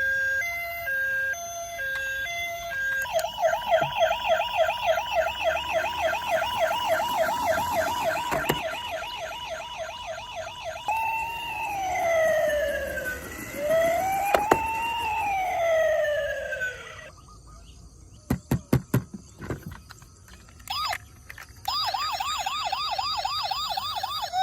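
Toy emergency-vehicle siren cycling through its electronic patterns: a two-tone hi-lo at first, then a fast warble, then a slow wail rising and falling twice. After that come several short buzzy horn blasts and a brief chirp, and the fast warble returns near the end.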